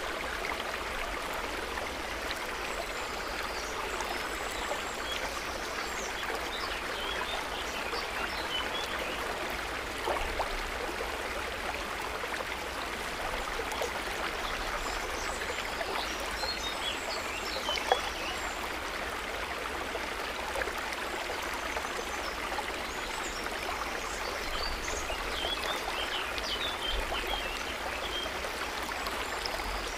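Water trickling and babbling steadily, with faint scattered high chirps from small animals. There is one sharp click a little past halfway.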